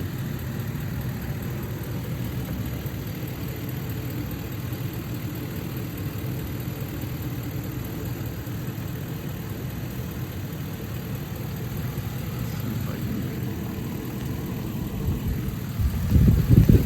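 Engine of a 2017 Micro Bird bus idling steadily and smoothly. Louder, rougher low bumps come in near the end.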